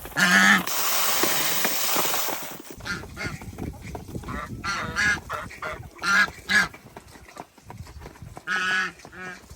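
Domestic geese honking in a series of short calls, one loud honk at the start and then pairs of calls through the middle and near the end. A loud hiss underlies the first couple of seconds and cuts off suddenly.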